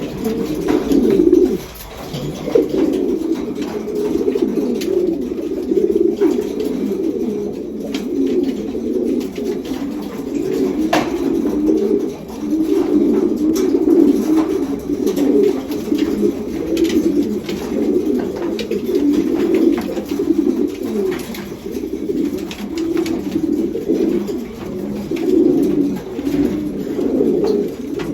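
Many domestic racing pigeons cooing together in an enclosed loft: a steady, overlapping low cooing with no pause, typical of birds newly paired for breeding.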